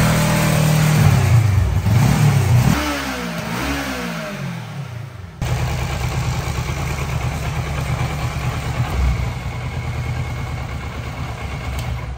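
Motorcycle engine on a rear stand, revved up and down in several blips with the rear wheel spinning, then abruptly settling to a steady idle about five seconds in.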